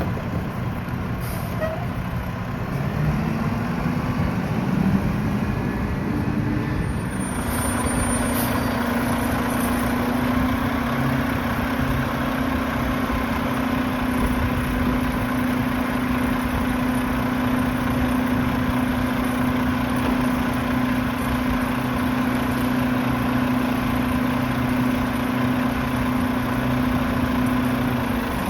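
Mack garbage truck's diesel engine rising in revs a few seconds in, then holding a steady raised speed for about twenty seconds while the Heil PowerTrak rear loader's hydraulic packer runs its compaction cycle.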